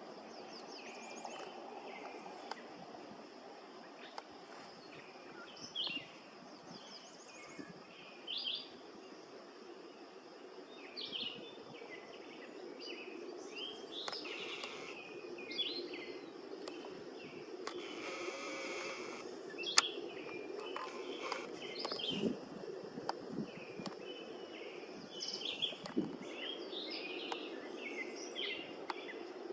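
Cedar waxwings and other birds giving many short, thin, high chirps, scattered throughout, over a steady low background rumble. A brief hiss comes about eighteen seconds in.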